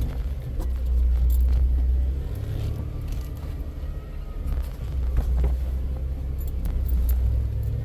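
Off-road vehicle's engine running at low speed as it crawls along a rough trail: a steady low rumble that swells and eases, with scattered clicks and rattles from the body and loose items.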